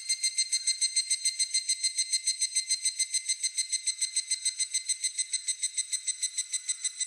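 Higurashi (evening cicada) calling: a fast run of clear, ringing pitched notes, about eight a second.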